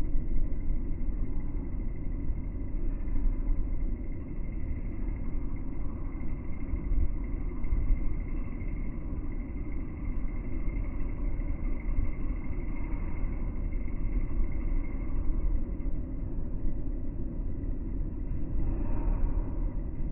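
Low, steady rumble of a suburban train running into the station, heard slowed down.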